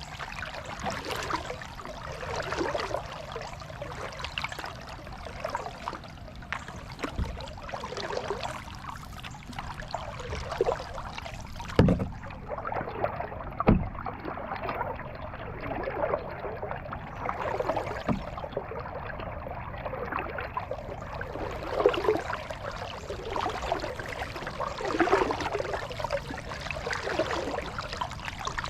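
Kayak paddle strokes splashing and dripping on the water, roughly one stroke every second or so, with two sharp knocks about twelve and fourteen seconds in.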